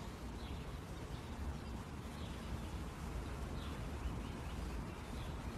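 Faint bird chirps now and then over a steady low hum and hiss of background ambience.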